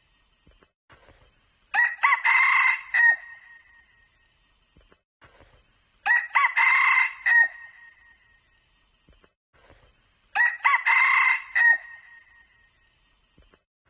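Red junglefowl cock crowing three times at evenly spaced intervals of about four seconds. Each crow is a loud, ringing call about a second and a half long that ends on a held high note.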